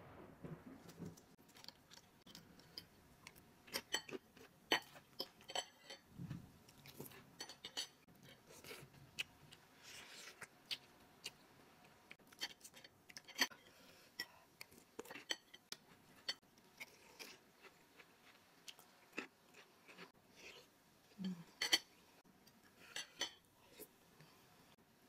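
Close-miked eating of bakso meatball soup: wet chewing and mouth sounds, with scattered sharp clicks of a metal spoon and fork against a ceramic bowl.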